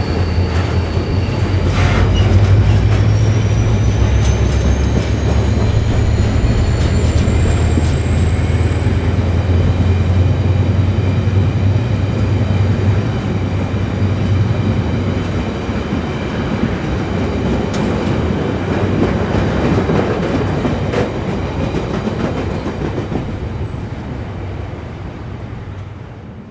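Diesel-hauled engineering train of flat rail wagons rolling past and away. The locomotive's low engine drone fades after about halfway, leaving the rumble of the wagons' wheels on the track. A thin high whine rises in pitch over the first ten seconds or so, and everything fades near the end.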